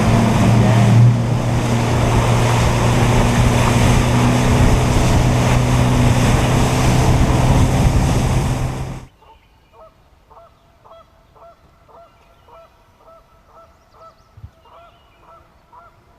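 Boat outboard motor running at speed with heavy wind and water rush, which cuts off suddenly about nine seconds in. After that, geese honking repeatedly, quieter, about two honks a second.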